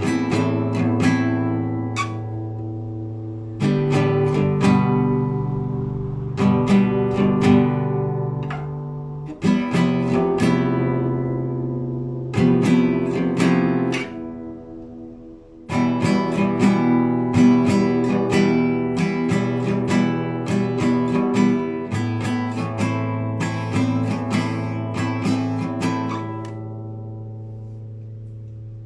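Classical guitar played solo: improvised arpeggios of plucked notes over held bass notes, in phrases a few seconds long. Near the end the last chord rings out and fades.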